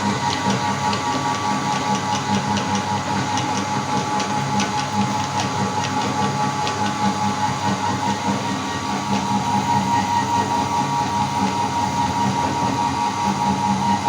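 Electric meat grinder motor running steadily with a constant whine, grinding jelly candy, with light ticking and clicking during roughly the first half.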